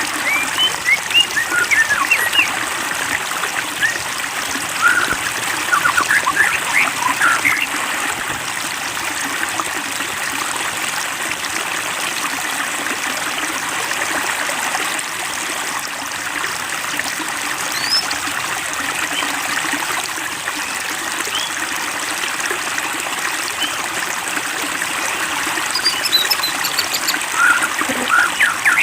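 Water trickling and splashing steadily, with clusters of short, quick high-pitched sounds in the first several seconds and again near the end.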